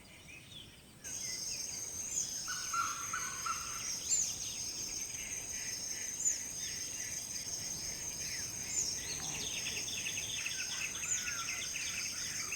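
Dusk forest ambience: crickets trilling steadily at a high pitch, with birds calling over it in short chirps that recur every second or two. It starts about a second in, after a moment of near silence.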